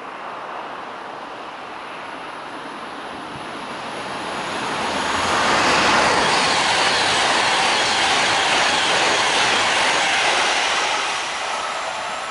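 A train passing at speed close by: a broad rushing rail noise that builds over the first few seconds, holds loud, then drops away about eleven seconds in.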